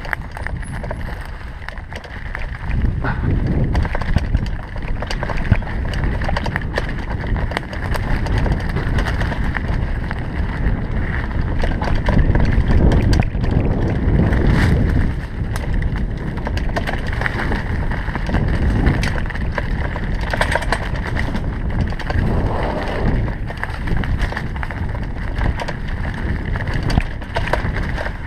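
Bicycle ridden over a rough trail: a constant rumble of tyres and rattling frame, with many small knocks, and wind buffeting the action camera's microphone. The rumble grows louder about halfway through.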